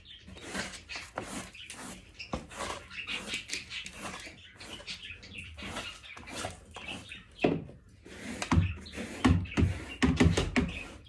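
Broom sweeping seed off the floor in quick repeated strokes, with a few louder thuds near the end.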